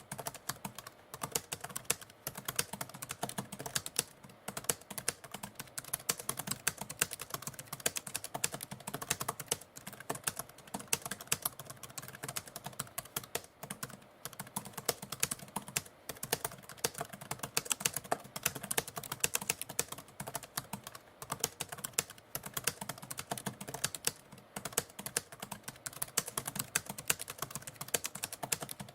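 Typewriter being typed on: a fast, continuous run of key clicks.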